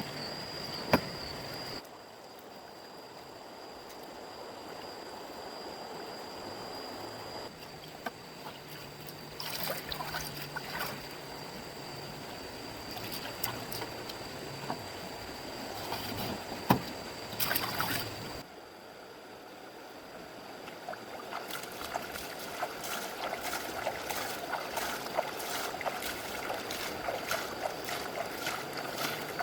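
Water trickling and splashing, with a few sharp knocks; the sound changes abruptly several times.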